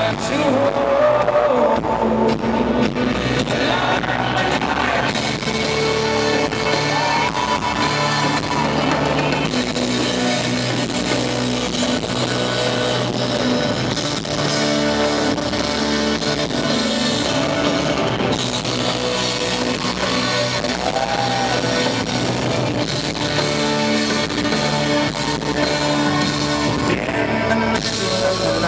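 A live folk-rock band plays an instrumental passage, with guitar and drums, and voices singing at times. It is an audience recording with weak, poor bass.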